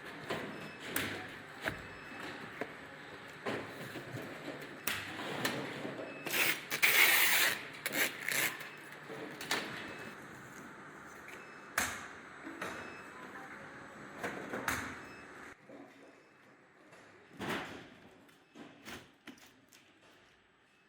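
Irregular knocks, clicks and clatter of handling work in a factory, with a short hissing burst about seven seconds in.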